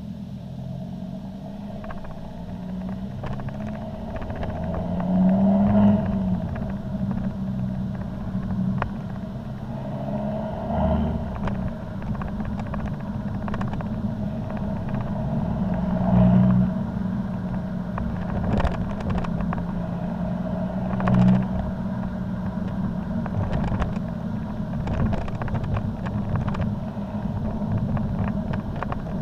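Volvo C30 D5's five-cylinder diesel running through an aftermarket Powerflow cat-back exhaust with the DPF removed: a steady low drone that swells louder four times, about every five seconds.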